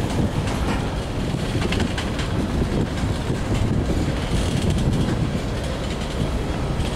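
Freight train of covered hopper cars rolling past close by: a steady noise of steel wheels running on the rails, with scattered clicks.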